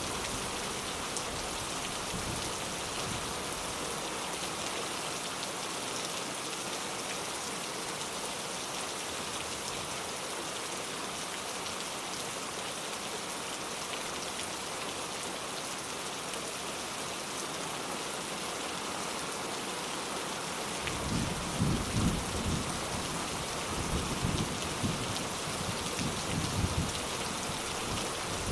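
Steady rain hissing throughout. About three-quarters of the way in, low rolls of thunder rumble several times under the rain.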